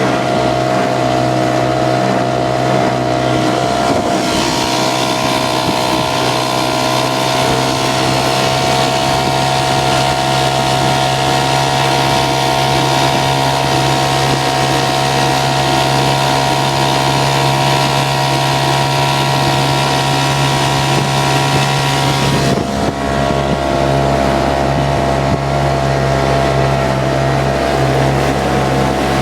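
Montgomery Ward 7.5 hp outboard motor built by Clinton, running steadily with the boat under way. Its note shifts about four seconds in and again a little past twenty seconds. Some wind on the microphone.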